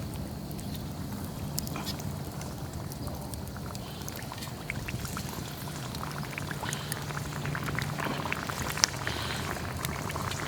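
Cooking oil heating in a pan over a campfire, with scattered crackles and pops over a low steady hum; the popping grows busier in the second half.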